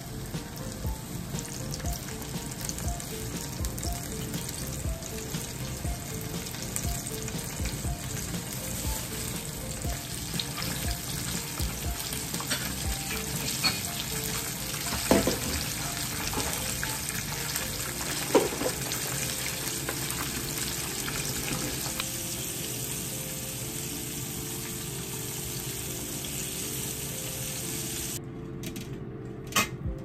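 Karaage (Japanese fried chicken) deep-frying in oil: a steady sizzle and crackle, with two sharp knocks about three seconds apart near the middle. The sizzle cuts off suddenly near the end.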